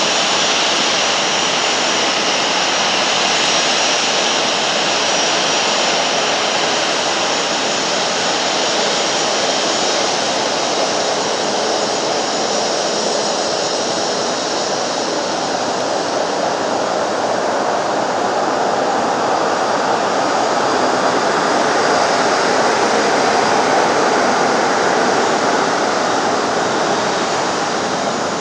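Jet aircraft engines running, a loud steady rush of engine noise with a faint high whine, swelling a little past the middle and easing off near the end.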